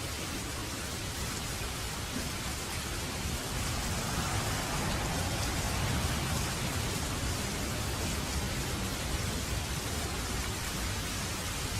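Steady rain falling, an even hiss over a low rumble, growing a little louder a few seconds in.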